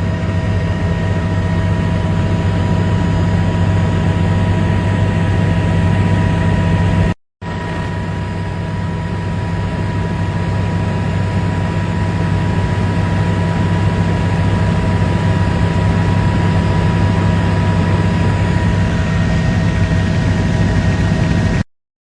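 Helicopter running steadily: a loud, even low drone with a steady whine over it. It drops out briefly about seven seconds in and cuts off suddenly near the end.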